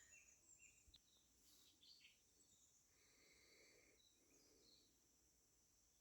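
Faint evening birdsong: scattered short chirps and whistles from several birds, very quiet against a low background hiss.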